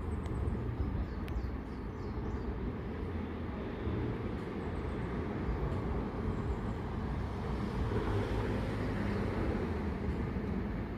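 Steady low vehicle rumble that swells slightly late on, with a few faint high chirps near the start.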